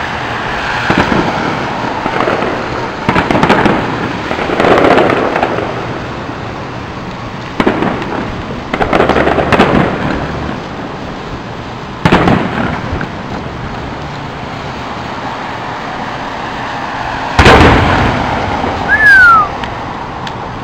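Aerial fireworks going off in an irregular series of booms with crackling tails, the loudest two near the end, and a short falling whistle between them.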